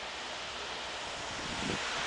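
Steady rushing noise of a departing electric local train rolling along the track, growing louder toward the end, with a soft low thump of wheels over a rail joint near the end.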